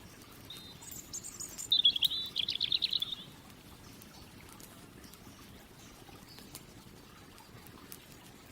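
A songbird sings one short phrase about a second in: a few high notes, then a rapid warbling trill lasting about a second and a half. Under it is a low, steady outdoor background with faint scattered clicks.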